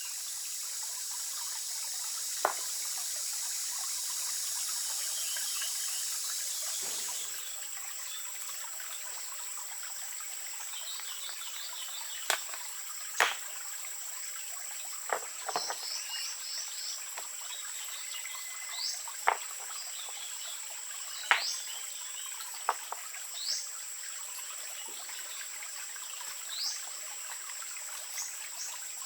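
Water trickling for about seven seconds, then stopping abruptly. After that a steady high insect drone remains, with short rising bird chirps and scattered sharp clicks.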